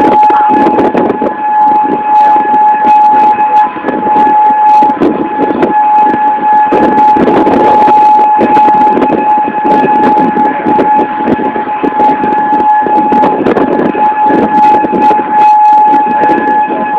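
Outdoor tornado warning siren sounding a steady, unwavering tone, with a loud rushing noise rising and falling beneath it.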